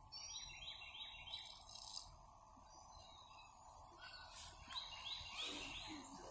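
A songbird singing: a phrase of four quick, slightly falling notes, given twice about four seconds apart.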